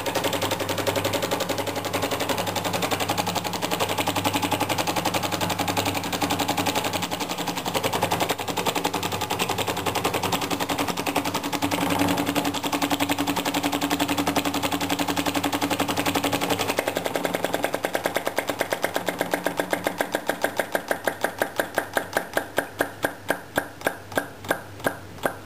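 A small flame-eater (vacuum) model engine running with a rapid, even clicking of its moving parts. Over the last several seconds it slows down, the beats coming further and further apart, until it stops.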